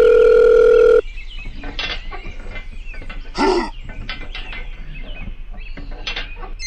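A steady electronic tone, like a telephone dial tone, cuts off about a second in; then a jumble of short chirping calls follows, with one louder call about three and a half seconds in.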